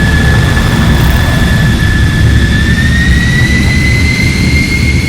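Jet airliner engine noise inside the passenger cabin: a loud, steady low rumble with a high turbine whine that rises slightly in pitch about two and a half seconds in.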